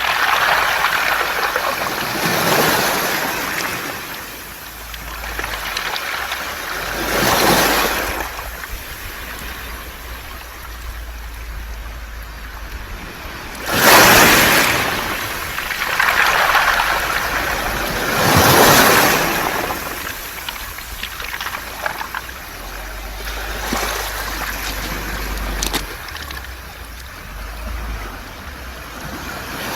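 Sea waves washing up a beach of smooth, rounded mongdol pebbles and draining back through the stones, in a steady hiss that swells and fades every four to six seconds. The loudest wave comes about halfway through.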